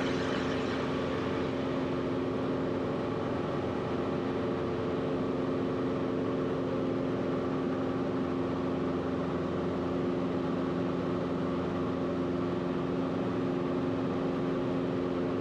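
Cessna 172RG's four-cylinder Lycoming engine and propeller droning steadily in the climb, heard inside the cabin as a constant hum with a few steady tones.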